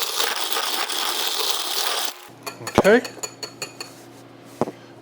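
Spoon stirring coffee in a mug, a dense run of scraping and clinking that stops suddenly about two seconds in, followed by a few light clinks.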